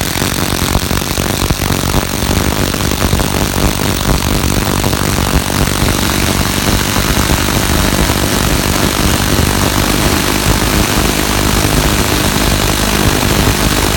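Two cordless impact drivers, a Fein ASCD18-200W4 and a Makita BTD136, hammering together as they drive 260 mm plate-head wood screws into timber: a loud, continuous rapid rattle of impacts, driving until both screws stall.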